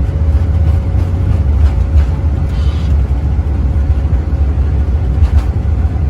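Steady low rumble inside a Boeing 787 cockpit as the airliner rolls on the ground after touchdown, with a faint steady whine that fades out about two-thirds of the way through.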